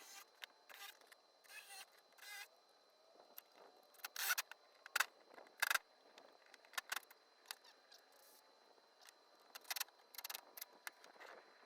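Scattered light clicks, taps and brief scrapes of building materials and tools being handled, the sharpest knocks coming in a cluster midway and again a little before the end.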